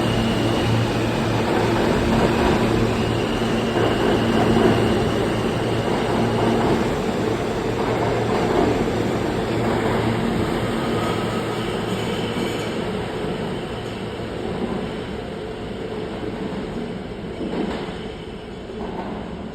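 R160A subway train departing a station: traction motors hum and whine with steady tones over the rumble of the cars. The sound grows gradually fainter as the train pulls away.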